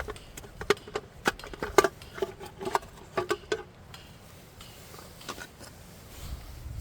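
A run of light knocks and clinks of camping gear being handled, bunched in the first three and a half seconds, several with a short ring, then quieter.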